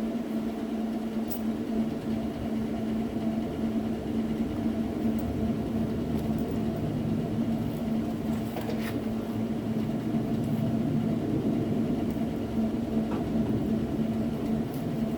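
A steady machine hum with one strong low tone and a rumble under it, broken by a couple of faint clicks.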